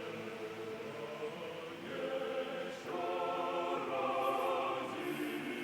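Choral music: several voices holding long chords, moving to new chords every second or two.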